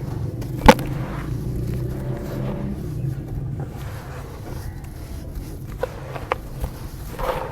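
Dry dirt chunks crumbling and breaking, with one loud sharp crack about a second in and a couple of smaller cracks near the end, over a low steady rumble.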